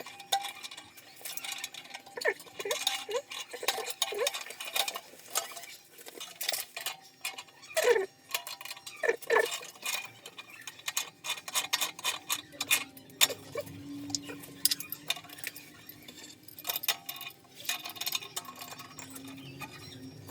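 Irregular metallic clicks and clinks of hand tools on heating-pipe fittings, with a few short squeaks in the first half.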